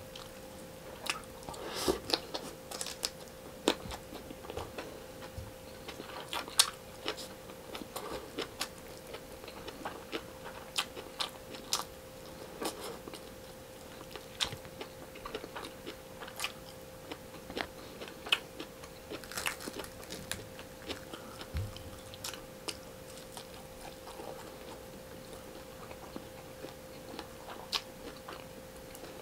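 Close-miked chewing of fried tilapia and rice eaten by hand: frequent short wet mouth clicks and smacks with occasional crunches. A faint steady hum sits underneath.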